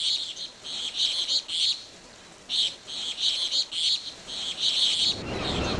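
Birds chirping in short groups of rapid, high twittering with pauses between them. A steady low rushing noise comes in near the end.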